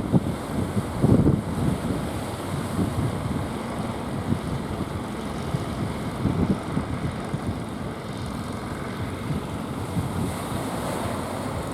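Strong wind buffeting the microphone in irregular gusts over the rush of surf.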